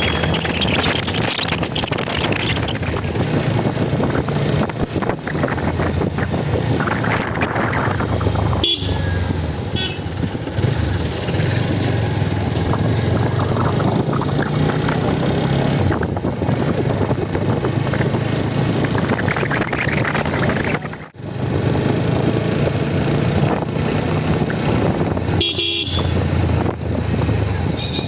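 Motorcycle riding on the road, its engine running steadily under wind noise, with short horn toots a few times.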